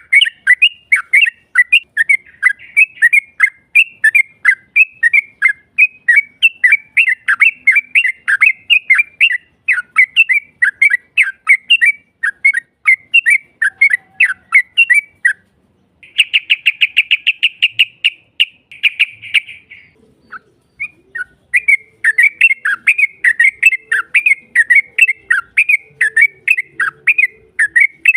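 Yellow-vented bulbul (trucukan) calling in a fast, continuous run of chirping notes. About halfway through, the notes stop briefly and give way to a quick, rapid trill of about three seconds, the long 'ropel' roll. After a short pause the chirping resumes.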